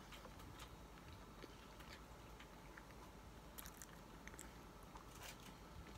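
Faint chewing of a soft jelly-filled donut, with a few small mouth clicks in the second half, otherwise near silence.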